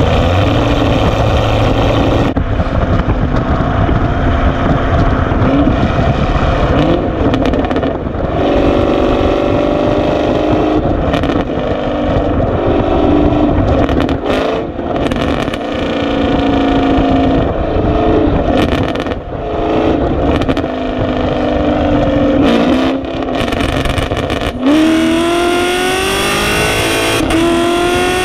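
Chevrolet Camaro SS's 6.2-litre V8 exhaust through 2-inch headers and an X-pipe into the factory NPP (dual-mode) exhaust, the engine note rising and falling as it is driven. Near the end it accelerates hard, the pitch climbing steadily.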